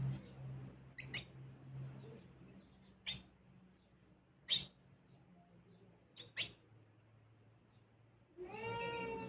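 Sparrows chirping: a handful of short, sharp single chirps spaced a second or more apart. Near the end comes a longer call with several overtones, bending in pitch.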